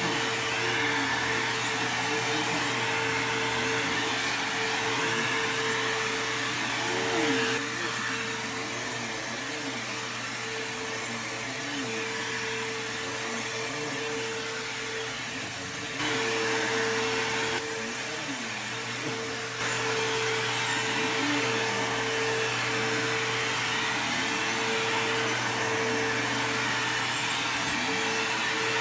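Bissell CleanView II bagless upright vacuum (model 3574) running steadily, its motor giving a constant whine over the rush of air. A lower hum wavers up and down in pitch, and the sound drops slightly in level for a few seconds at a time as the load on the vacuum changes.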